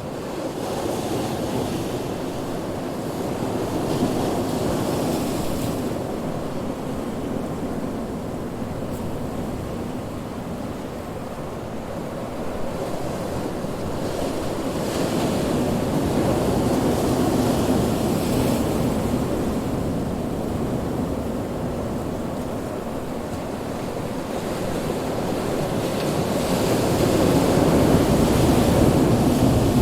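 Ocean waves breaking on a shore, a continuous rushing surf that swells and ebbs as sets of waves roll in, with surges about 4 seconds in, in the middle and near the end.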